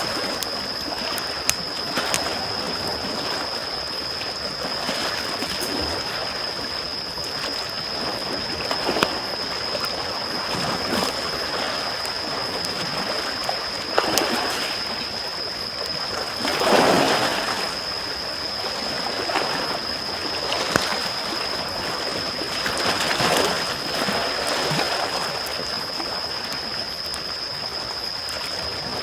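Small sea waves washing in and receding, with a wood campfire crackling and giving off occasional sharp pops. The wash swells every few seconds, loudest about two-thirds of the way through, over a steady high-pitched tone.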